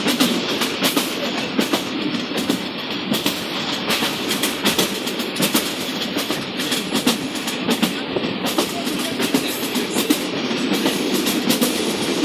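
Passenger train running along the track, heard from on board: a steady rumble with a rapid, uneven clatter of wheel clicks over the rails.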